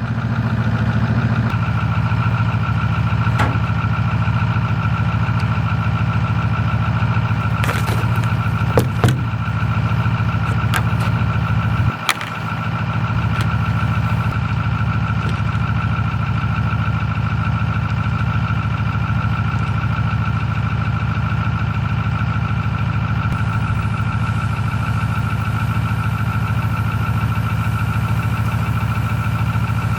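Truck engine running steadily, with a brief drop in level about twelve seconds in and a few short clicks or knocks.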